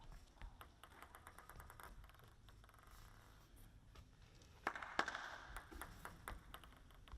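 Table tennis ball making light, quick clicks against the table and paddles, a series of ticks with the sharpest about five seconds in, followed by a short rush of noise.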